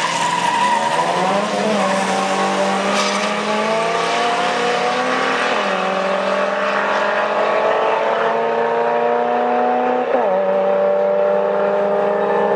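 Two cars accelerating hard away from a drag-strip start. Their engines climb in pitch through each gear and drop back at the upshifts, about two, six, eight and ten seconds in.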